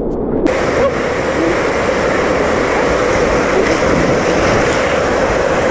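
Steady rush of flowing and falling water, cutting in abruptly about half a second in.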